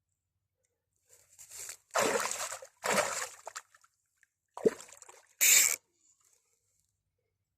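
Water splashing and sloshing in five short bursts, the loudest two about two and three seconds in and a sharp splash near five and a half seconds.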